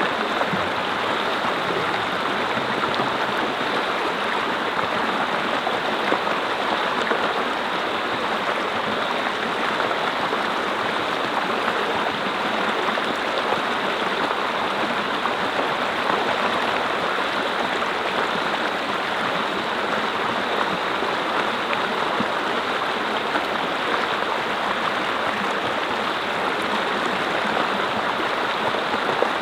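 Mountain brook flowing steadily, water rushing and splashing over rocks in an unbroken wash of sound.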